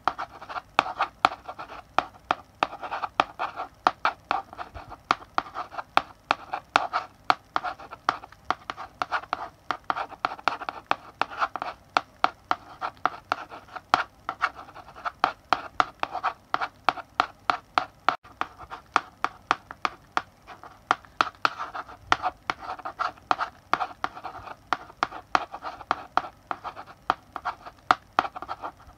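Chalk writing on a blackboard: a continuous irregular run of sharp taps and short scratchy strokes, several a second, as letters are written.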